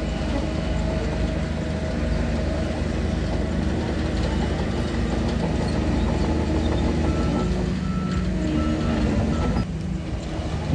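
Shantui DH17 bulldozer's diesel engine running steadily, with a backup alarm giving a run of short, evenly spaced beeps about two-thirds of the way in.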